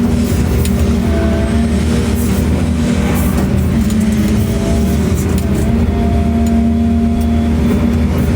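A machine's engine running steadily: a low rumble under a steady hum, with no change in speed.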